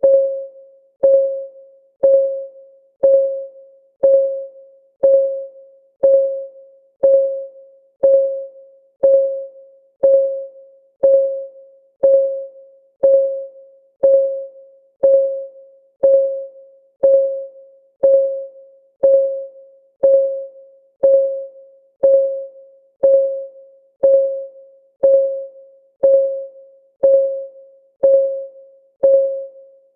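Clock-ticking sound effect of a countdown timer, one tick each second at a steady rate. Each tick is a short, pitched tock that dies away within about half a second.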